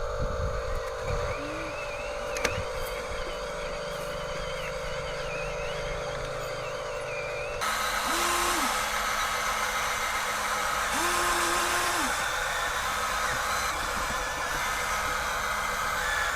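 Radio-controlled toy construction machines running with a steady mechanical hum. The sound changes abruptly about seven and a half seconds in, after which a motor starts, holds and stops twice.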